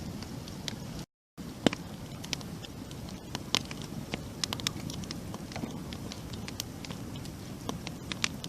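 Campfire burning: wood crackling with many sharp, irregular pops and snaps over a steady low rush of flame. The sound cuts out completely for a moment about a second in.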